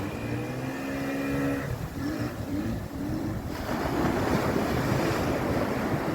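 Wind buffeting the microphone over breaking surf. For about the first two seconds a steady pitched hum sounds over it, followed by three short rising-and-falling tones.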